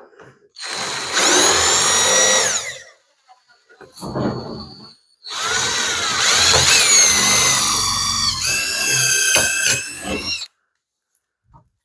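Power drill running in two bursts, about two seconds and then about five seconds, its motor whine rising and falling in pitch with the trigger as nuts and bolts are fastened.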